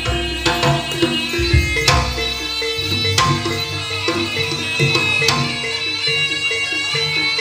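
Live kuda kepang (jaranan) ensemble music: hand drums over a steady repeating pattern of ringing pitched metal percussion, with a few sharp accented strikes.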